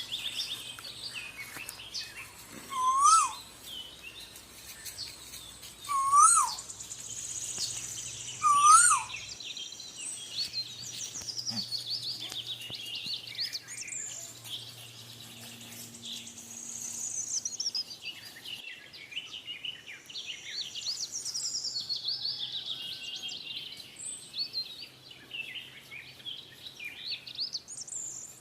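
Asian koel calling three times, a loud rising note about every three seconds, over a busy chorus of small birds chirping and twittering.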